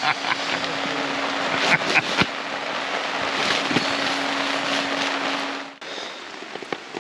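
Steady rain hiss with a steady low hum under it, both cutting off abruptly near the end, after which a quieter rain patter is left.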